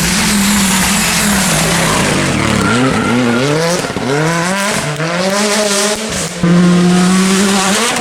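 R5-class rally car's turbocharged 1.6-litre four-cylinder engine driven hard: revs climb and fall several times through gear changes, then a sudden louder, steady high rev near the end.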